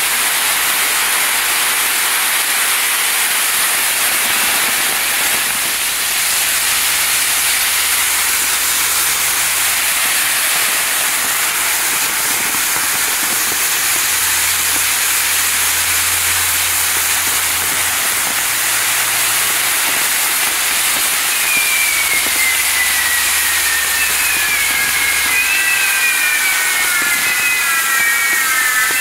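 Ground-firework spinning wheels burning in a finale, giving a loud, steady rushing hiss of sparks. From about two-thirds of the way through, several high whistles glide downward in pitch over it.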